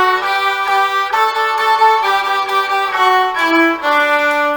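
Viola playing a bowed exercise line in sixteenth notes, the notes changing pitch in quick groups and ending on a longer held note near the end.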